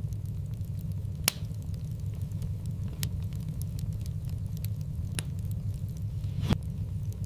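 Wood fire in a fireplace crackling, over a steady low rumble of the flames. There are many small ticks and a few sharp pops, the loudest about a second in and another near the end.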